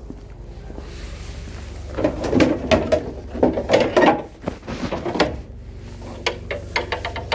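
Split firewood logs clunking and knocking against each other as they are handled, in a busy run of knocks from about two seconds in and lighter knocks near the end, over a steady low hum.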